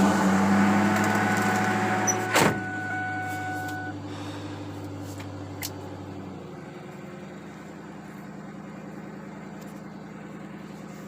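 Car engine idling just after a cold start, running fast at first with a thin steady whine and one sharp knock about two and a half seconds in, then dropping to a slower, quieter idle about six seconds in.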